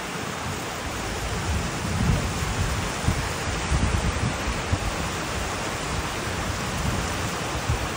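Heavy rain pouring steadily onto trees and foliage, a dense even hiss, with irregular low rumbles swelling now and then, most strongly about two and four seconds in.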